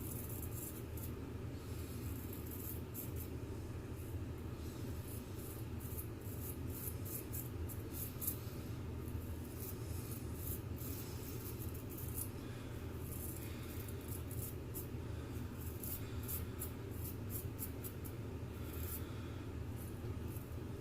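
Straight razor scraping through lathered stubble in quick, short strokes, a dry scratchy rasp repeated in rapid clusters.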